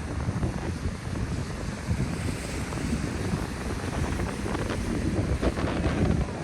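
Wind buffeting the microphone in an uneven low rumble, with ocean surf washing behind it.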